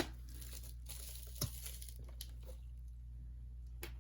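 Scattered short rustles and clicks of packaging being handled while a box of albums is unpacked: a sharp one at the start, another about a second and a half in, and a couple more later, with little sound between them.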